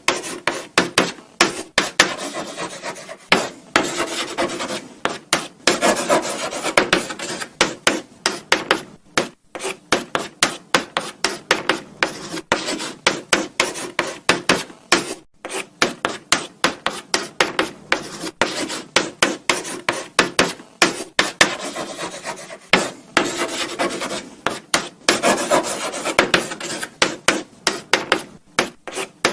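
Chalk writing on a blackboard: quick scratchy strokes, several a second, with short pauses between bursts of writing.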